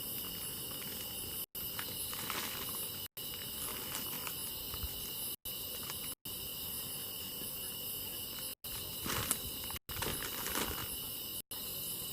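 Insects chirring in a steady, continuous high chorus, with a few faint crackles. The sound cuts out to silence for an instant several times.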